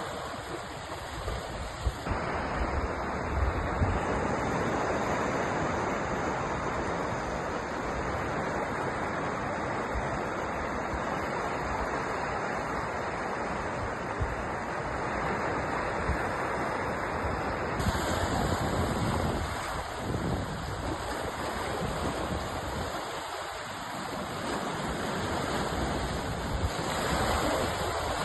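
Sea surf washing continuously. The noise stays steady, with an abrupt change in its hiss about two seconds in and again past the middle.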